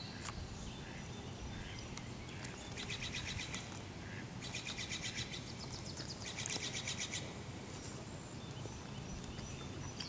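A small marsh bird singing two rapid, dry trills of evenly repeated notes, the second longer than the first, over a steady low rumble.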